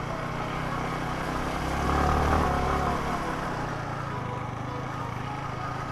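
Motorcycle engine running steadily under way, with wind and road noise. The engine swells louder for about a second, two seconds in, then settles again.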